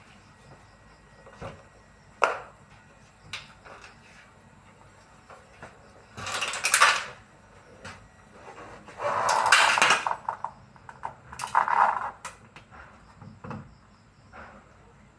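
Clattering of tools and metal parts being handled: scattered sharp knocks, with three longer rattling, scraping bursts in the middle and no steady machine running.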